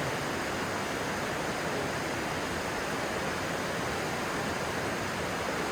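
Rushing stream water, a steady even rush with no breaks.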